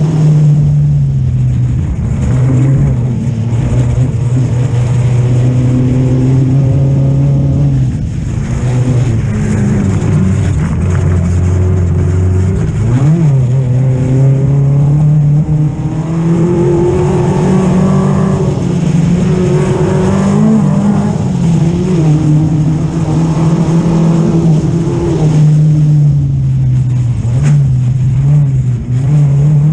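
Off-road race buggy's engine running hard at speed on a dirt track, heard on board, its pitch rising and dropping back several times over a steady rush of noise.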